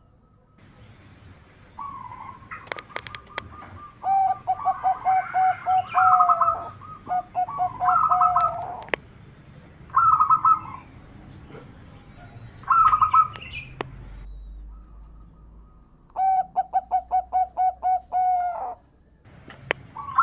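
Zebra dove cooing: several phrases of rapid staccato coo notes, about four a second, separated by short pauses.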